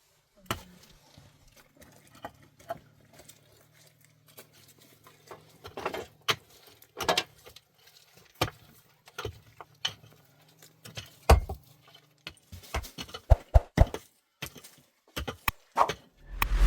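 Irregular knocks, taps and clatters, sparse at first and coming thicker in the last few seconds, over a faint low hum that fades out about three quarters of the way through.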